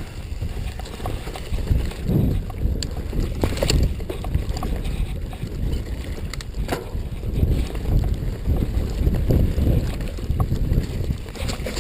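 Wind buffeting the microphone of a camera riding along on a mountain bike, over a loud low rumble, with a few sharp knocks and rattles as the bike goes over rough trail.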